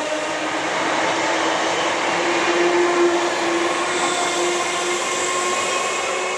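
Class 315 electric multiple unit running past close by: rumble of the wheels on the rails with a steady electric whine from the traction equipment, the whine fading out about five seconds in as the train draws away.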